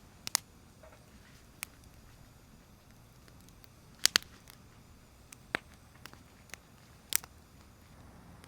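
Wood campfire crackling: scattered sharp pops, about six, the loudest a quick pair around four seconds in, over a low steady hiss of burning.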